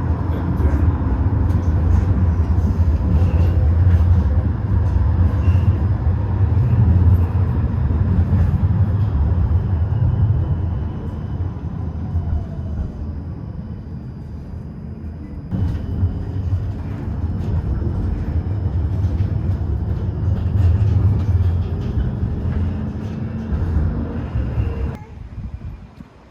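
City tram running along its route, a steady low rumble of wheels and motor. It eases off partway through, comes back suddenly, and drops away sharply near the end.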